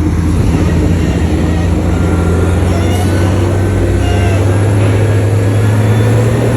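Heavy diesel engine of earthmoving machinery running under load, its low drone slowly rising in pitch. Faint short high squeals sound in the middle.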